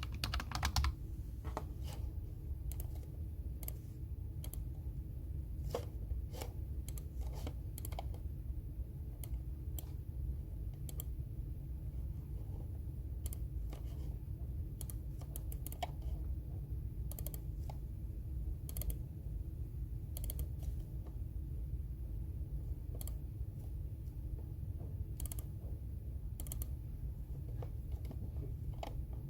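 Computer keyboard typing in irregular, scattered keystrokes, over a steady low background hum.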